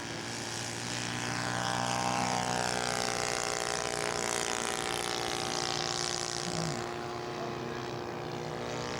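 Propeller engine of a radio-controlled scale model airplane in flight, a steady note that grows louder over the first couple of seconds, then falls in pitch and eases off as the model passes.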